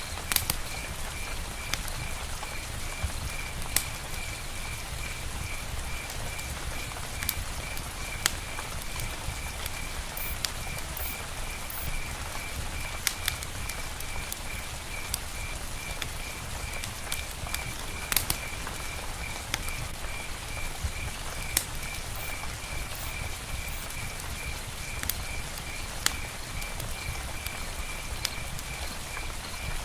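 Steady rain ambience with scattered sharp drops and clicks, over a low rumble. A high, evenly pulsed call from a calling animal repeats steadily throughout.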